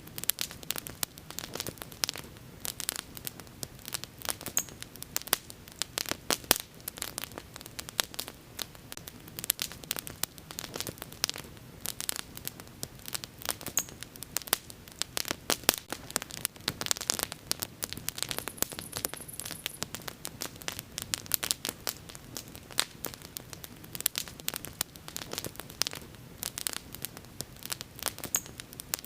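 Wood fire crackling and popping steadily: dense, irregular sharp pops over a low hiss of burning. A few faint, brief high chirps sound now and then.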